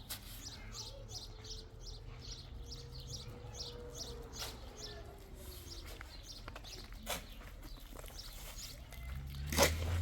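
A small bird chirping over and over, about three short high chirps a second, with a few sharp knocks, the loudest one near the end.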